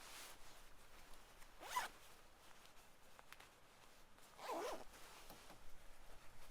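A zipper pulled twice, about three seconds apart, each a short rasping sweep over a faint background hiss.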